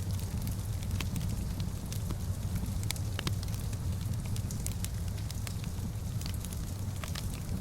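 Wood fire crackling in a stone fireplace: irregular sharp pops and snaps over a steady low rumble.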